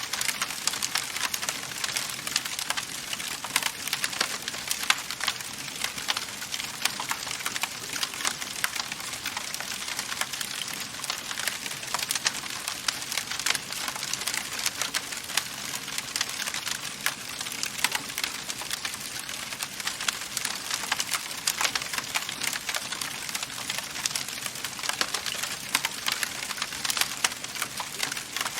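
Wood fire burning in a fireplace, crackling steadily with many small sharp pops over a soft hiss.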